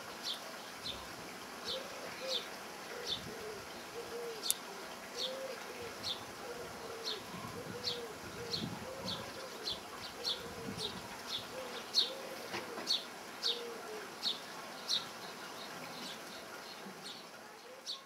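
A small bird calling, one short high falling note repeated about twice a second. A second bird joins with a lower arched call, repeated steadily, until near the end.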